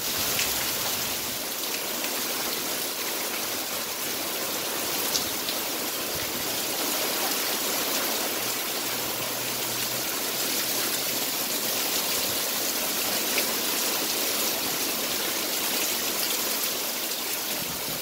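Heavy rain falling steadily: an even hiss with scattered drop ticks, and water streaming and dripping off a roof edge close by.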